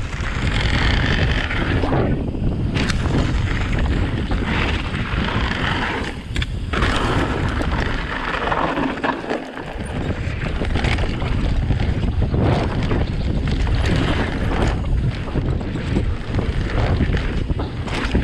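Wind buffeting the microphone of a camera riding on an e-bike, a steady rushing rumble with a few sharp knocks along the way.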